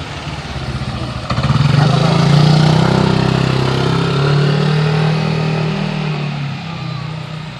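A motorcycle engine passing close by: it grows suddenly louder a little over a second in, holds a steady pitch, then fades away toward the end.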